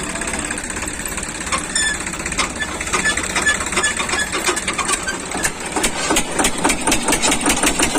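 Tractor diesel engine running, with a rapid, even knocking beat that grows stronger over the second half.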